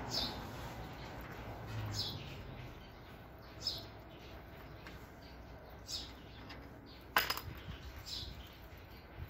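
Short high falling chirps, like a bird calling, repeating about every two seconds. One sharp metallic clink comes about seven seconds in.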